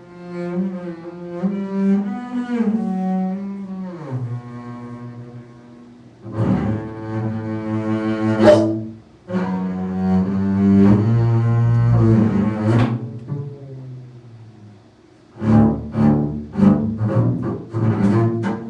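Solo cello playing a contemporary piece. Sustained bowed notes slide in pitch, then comes a longer, loud bowed passage. Near the end the notes turn into a quick run of short, sharp strokes.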